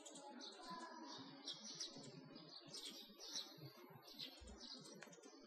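Faint birds chirping: short, high chirps repeated irregularly, a few each second.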